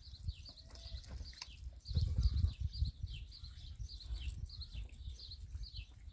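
A bird chirping: short high falling chirps repeated about three times a second, over low rumbling thumps that are strongest around two seconds in.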